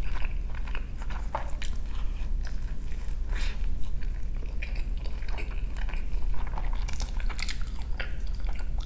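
Close-miked mouth sounds of a person chewing a bite of breakfast burrito: irregular soft clicks and smacks.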